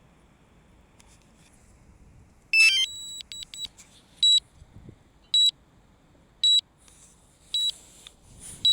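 DJI Mavic Mini's flight warning alarm. A short burst of chirping tones comes about two and a half seconds in, followed by a few quick beeps, then a single high beep repeating about once a second.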